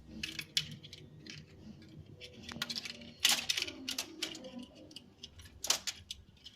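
Pet lory clambering about, a series of sharp clicks and scratchy rattles, loudest about three seconds in and again near the end.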